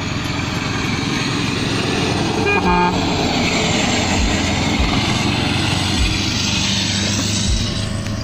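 VAZ-2112 coupe running through its aftermarket Stinger exhaust, a loud steady exhaust note whose upper hiss swells and eases. A short horn-like toot sounds about three seconds in, and several dull low thumps come through.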